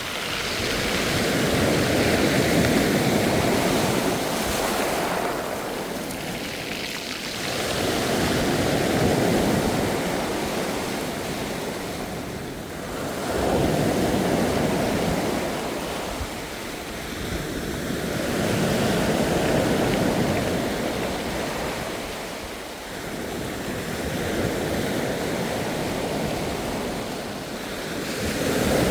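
Ocean surf: waves breaking and washing in, about five slow surges, each rising and fading over several seconds.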